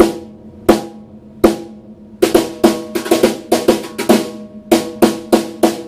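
A 14-inch snare drum struck with multi-rod Lightning Rods: three single hits about a second apart, then a quicker run of strokes, each hit ringing on.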